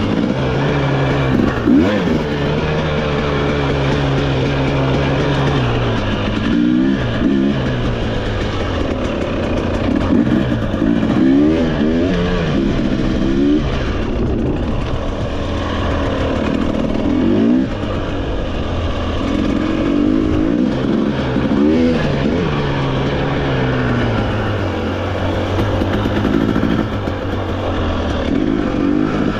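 Trail motorcycle engine running under riding load, its pitch rising and falling over and over as the throttle is opened and eased off.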